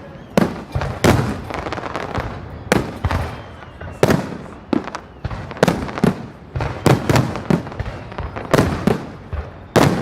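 Aerial firework shells bursting in quick, irregular succession, about twenty sharp bangs over ten seconds, each followed by an echoing tail.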